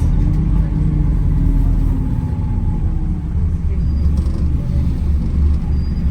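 Inside the cabin of a Wright Gemini 2 hybrid double-decker bus on the move: a steady low rumble of the diesel engine and road noise, with faint engine tones that rise and fall slightly.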